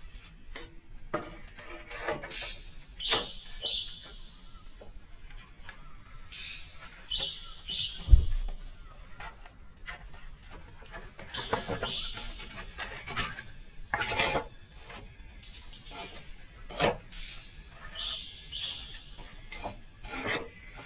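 Bird calls, short high notes in groups of two or three that recur every few seconds, over scattered knocks and clicks, with one heavy thump about eight seconds in.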